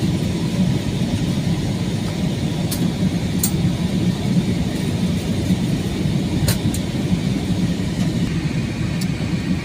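Steady cabin noise of an Airbus A321-200 airliner on its approach: a continuous low engine and airflow rumble, with a few faint ticks over it.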